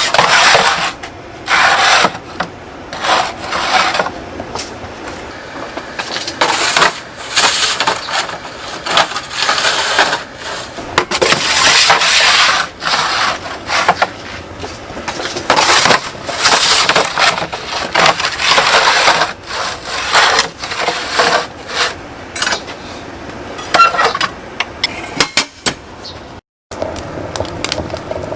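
Wood scraping and clattering in rapid, irregular bursts, roughly one every half second to second.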